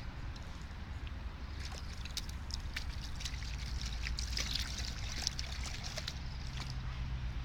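Water splashing and trickling as a toddler steps about in rain puddles, in short scattered splashes, over a steady low rumble.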